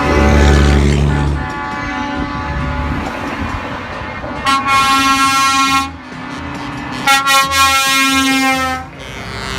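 Truck air horns sounding, with two long, loud blasts about four and a half and seven seconds in, over the low rumble of truck engines.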